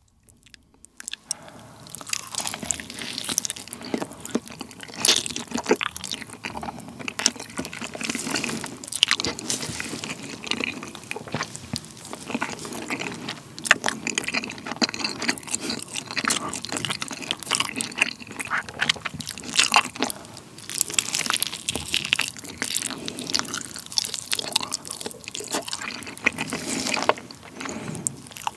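Close-miked mouth sounds of eating a grilled chicken drumstick topped with mayonnaise: dense wet clicks and smacks of biting and chewing, starting about a second and a half in.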